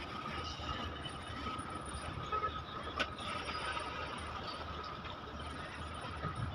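Goods train wagons rolling along the rails: a steady low rumble with a faint steady high tone above it and a single sharp click about three seconds in.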